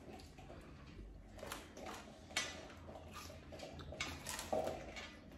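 Scattered soft clicks and rustles of plates and takeout food containers being handled and set down at a table.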